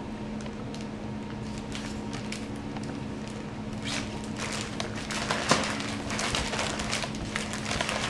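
Chicken pieces being tossed and pressed in a bowl of pecan meal and flour coating: irregular light crackles and clicks that thicken from about four seconds in, with one sharper knock, over a steady low hum.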